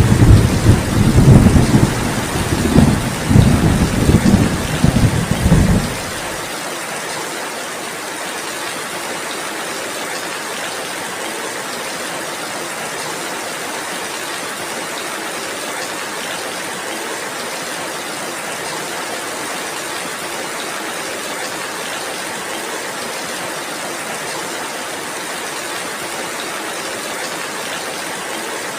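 Steady heavy rain, with a rolling rumble of thunder through the first six seconds or so that cuts off suddenly, leaving only the even rain.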